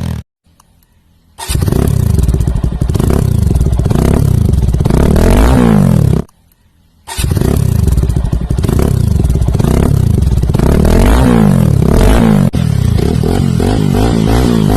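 TVS Apache RTR 200 4V's single-cylinder engine revving loudly through an aftermarket exhaust, its pitch rising and falling repeatedly as the throttle is blipped. The sound cuts out abruptly twice, just after the start and about six seconds in.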